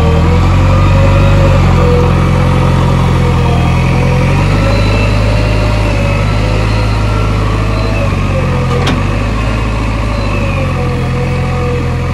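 Diesel engine of heavy farm or earthmoving machinery running steadily, its note wavering up and down. A single short click about nine seconds in.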